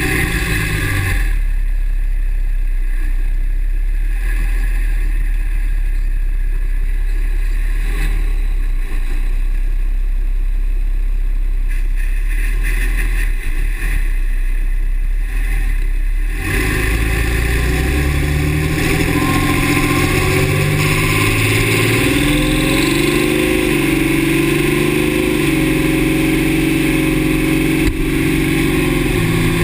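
2009 Dodge Ram's 6.7 L Cummins diesel running on the road: a steady low drone for about the first sixteen seconds, then a fuller engine sound that rises and falls in pitch.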